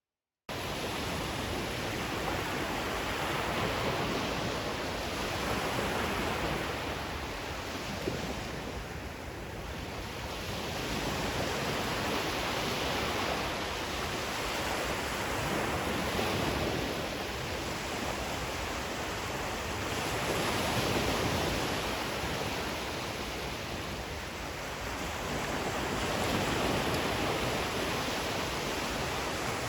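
Ocean waves washing ashore as a steady rushing noise that swells and eases every four to five seconds, starting suddenly about half a second in.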